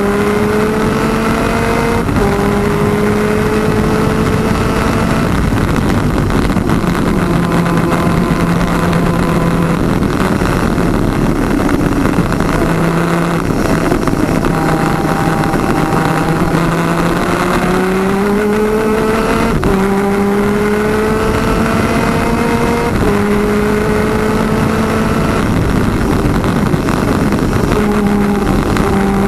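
Twin-cylinder 250cc two-stroke superkart engine running at race pace. Its pitch climbs steadily and drops sharply at each gear shift, several times over, and falls away a couple of times where it slows and then pulls up again.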